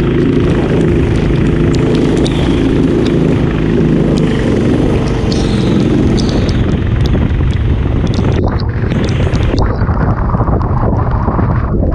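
Racing kart engine running steadily, with wind buffeting the microphone.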